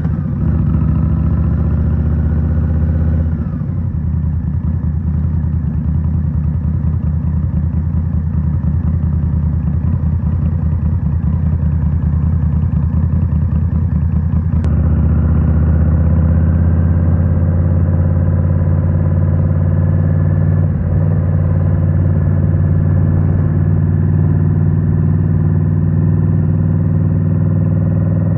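2023 Indian Scout Rogue's 69 cu-in V-twin running through Rinehart slip-on exhausts while riding, with a steady engine note. The engine eases off about 3 s in, pulls harder from about halfway with a slowly rising pitch, and dips briefly near 21 s.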